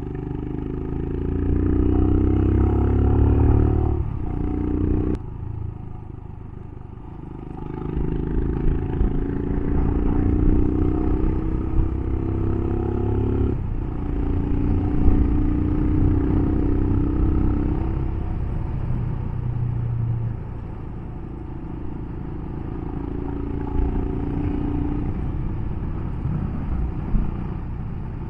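Royal Enfield Himalayan's single-cylinder engine pulling uphill under load, its pitch rising as it revs, then dropping sharply at gear changes several times, then running at a steadier, lower note.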